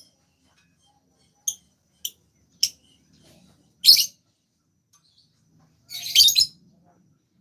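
A songbird giving short single chirps a second or so apart, then a quick run of notes about six seconds in.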